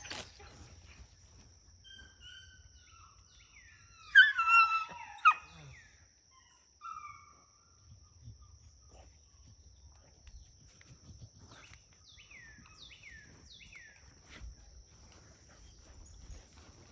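A dog whining and yelping in a short loud burst about four seconds in. Later comes a run of about five quick, high, downward-sliding calls, over a faint steady high-pitched hum.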